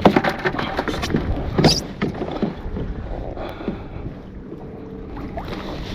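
Crab landing net being swept and splashed through the water beside a kayak while chasing a crab off the trotline. There are two sharp knocks, one right at the start and one just under two seconds in, then quieter water noise.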